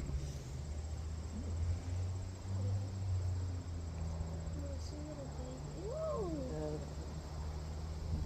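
Insects, likely crickets, trilling steadily at a high pitch over a low steady hum. Faint distant voices come in about halfway through.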